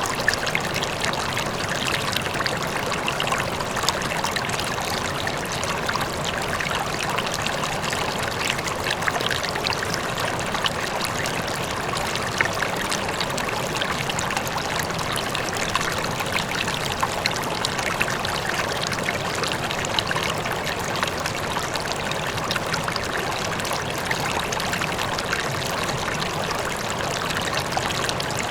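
River water flowing steadily over rocks, a continuous rushing with small splashes and trickles, and a waterfall in the distance.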